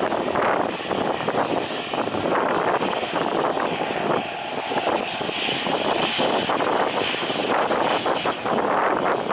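Airliner engines running loud and steady as the aircraft passes during a landing, a rough rushing noise with a higher hiss swelling in the middle.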